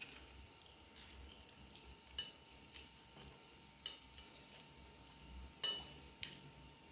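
A spoon or fork clinking now and then against a plate while eating fried noodles, four scattered clinks with the loudest one near the end.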